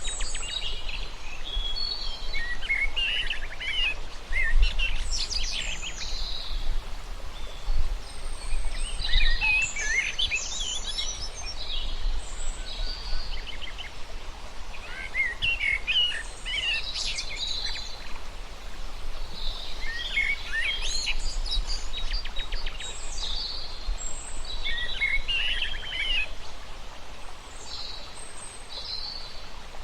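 Several small birds chirping and trilling in overlapping bursts that come and go every few seconds, over a steady low background rumble.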